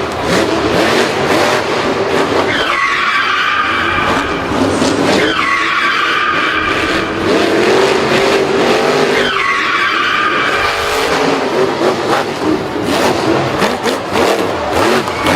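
Racing car engines running, with three long tyre squeals in a row, each starting with a short falling slide and then holding a steady screech.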